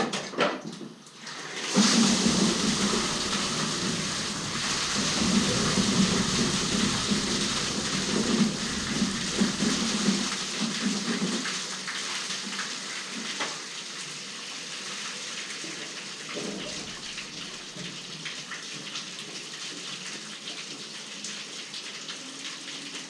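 Water rushing and splashing through a drainage channel as it is flushed clear of packed pigeon guano. It comes in suddenly about two seconds in, is loudest for the next nine seconds or so, then carries on more softly.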